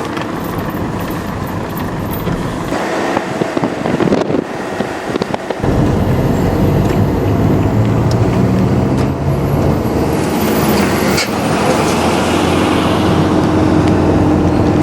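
Vehicle engine running with road noise while travelling; about five and a half seconds in, a louder, steady engine hum takes over.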